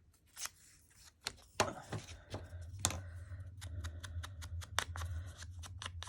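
Sharp, irregular clicks and taps of craft papers and supplies being handled on a work table, over a steady low hum that comes in about a second and a half in.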